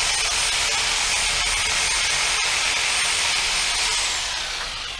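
Reciprocating saw (Sawzall) cutting through a tree branch: a steady high motor whine with rasping blade noise, winding down with a falling whine near the end as the trigger is let off.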